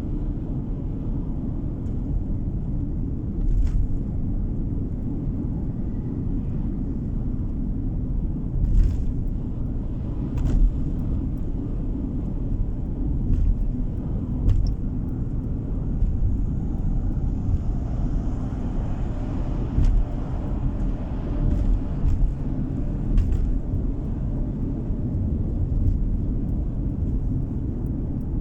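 Car road noise from inside a moving car: a steady low rumble of tyres and engine, with a few short knocks and a swell of wider hiss partway through.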